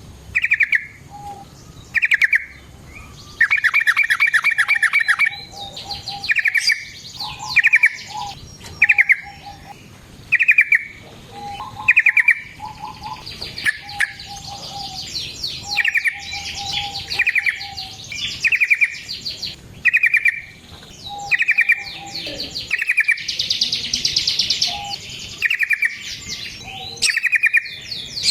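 Yellow-vented bulbul (trucukan) singing: short bubbly phrases repeated about once a second, broken by a long rapid trill and stretches of busy chattering.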